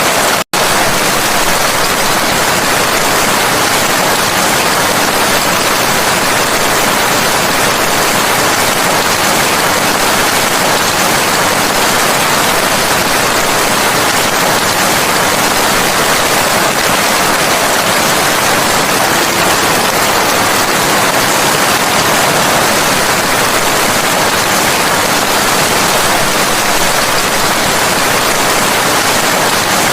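Steady heavy rain: a dense, even hiss of falling drops with no thunder or other events. It cuts out for an instant about half a second in.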